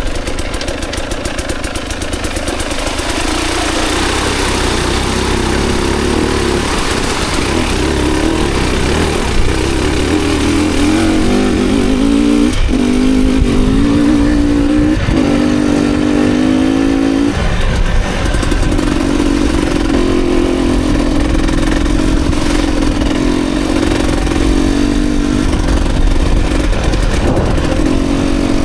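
Dirt bike engine running under changing throttle while ridden, its pitch rising and falling over and over, with several sharp breaks about halfway through, over a steady rush of noise.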